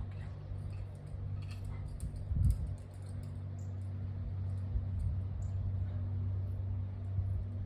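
Light, scattered clicks and taps of a climber's gear and movements on the rock over a steady low hum, with a dull thump about two and a half seconds in.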